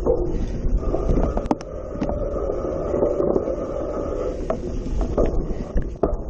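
Cyclocross bike ridden over rough ground: wind buffeting the microphone, with the bike rattling and knocking over bumps. A faint steady whine comes in about a second in and fades a little past the middle.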